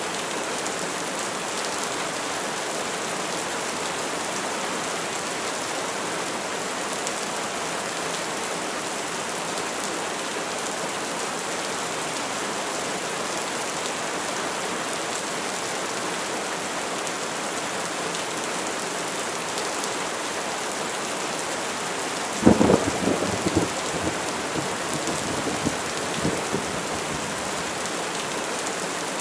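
Steady rain falling throughout. About three-quarters of the way through, a sudden close thunderclap cracks, then crackles and rumbles unevenly for a few seconds before the rain alone carries on.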